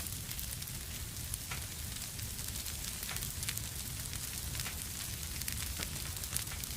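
Fire crackling in a fireplace: frequent, irregular sharp pops and snaps over a steady low rumble and hiss.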